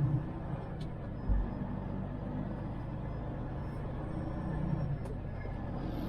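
Semi truck's diesel engine running as a steady low drone, with a brief thump just over a second in.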